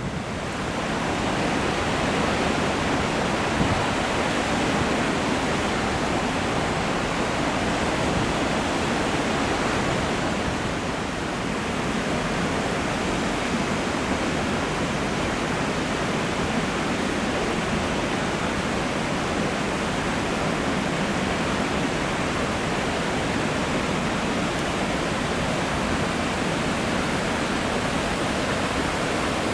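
Floodwater pouring through the Kanogawa Dam's spillway in a flood-control release: a loud, steady rush of falling water with no letup.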